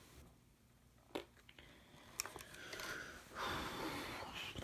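Hard plastic handling noise from a hobby RC transmitter being picked up and set down: a sharp click about a second in, a few lighter clicks, then a rustling scrape lasting about a second and a half near the end.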